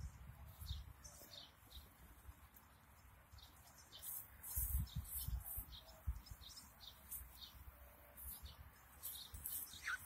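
Small birds chirping faintly in short, irregular high chirps, with a short falling call near the end, over low thumps and rumble.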